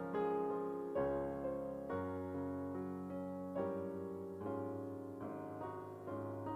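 Solo piano playing slow, sustained chords, with a new chord struck about once a second.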